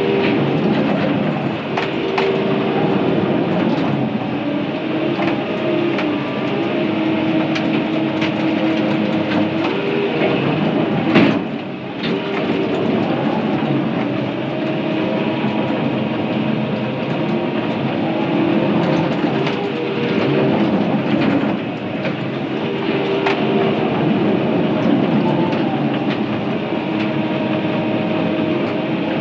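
Crawler dozer's diesel engine working under load while pushing a big pile of brush, its pitch rising and falling, with the steel tracks clanking. There is a sharp knock about eleven seconds in.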